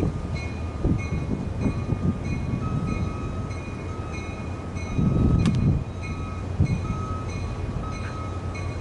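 Caltrain push-pull commuter train pulling out of the station: a steady low rumble of the diesel locomotive and rolling cars that swells about five seconds in. A bell rings in a steady rhythm, about twice a second, throughout.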